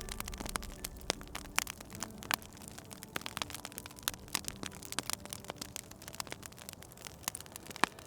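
Wood fire crackling, with many irregular sharp pops and snaps over a soft hiss.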